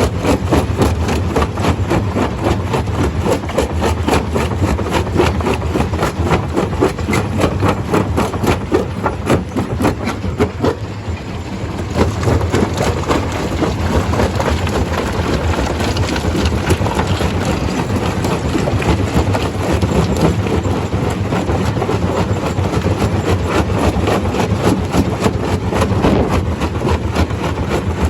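Stone crusher machine running: a steady engine drone under a dense, continuous clatter, easing briefly about eleven seconds in.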